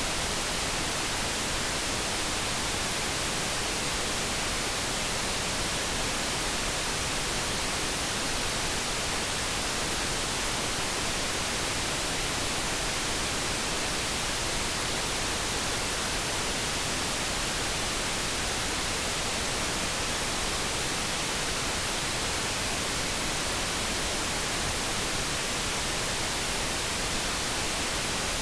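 Steady synthetic background noise: an even, unchanging hiss with no tones or separate sounds.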